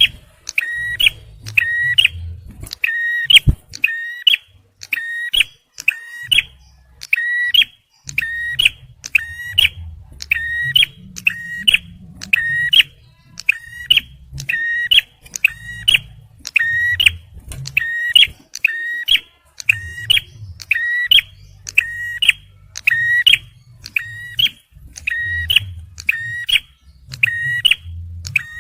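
Male prinia (prenjak merah, or ciblek) calling persistently: a short, sharp, high call repeated rapidly and evenly, over a faint low rumble.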